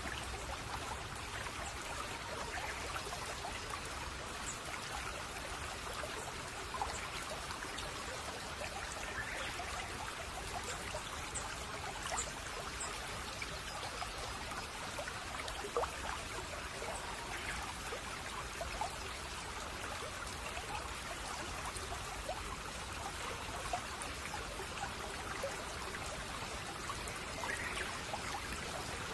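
Small shallow stream babbling and trickling steadily, with a few faint, brief bird chirps.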